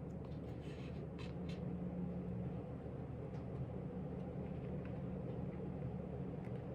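Steady low room hum, with a few faint light ticks and rustles in the first couple of seconds and scattered later.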